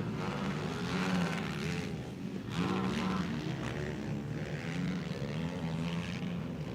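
Racing quad bikes' engines revving up and down as they lap a motocross track, with the pitch rising and falling repeatedly.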